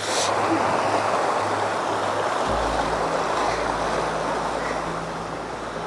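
Steady rush of shallow stream water flowing across the path, with a low rumble joining about two and a half seconds in.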